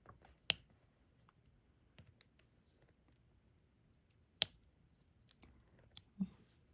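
Diamond painting drill pen tapping resin drills onto the sticky canvas: scattered small plastic clicks and ticks, two of them sharper, about four seconds apart, and a soft thump near the end.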